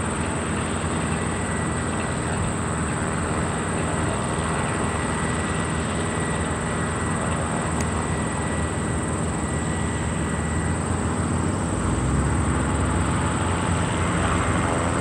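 Piston engine of a propeller-driven Christen Eagle aerobatic biplane running steadily, growing louder and deeper about twelve seconds in.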